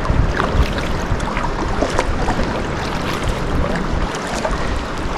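Sea kayak on the move: water splashing and lapping around the hull and paddle strokes, with scattered small splashes, and a low buffeting of wind on the microphone.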